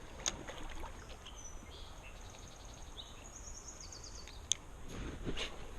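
Faint outdoor background with small birds chirping in thin, high calls, including a quick run of ticks near the middle, and a couple of sharp clicks.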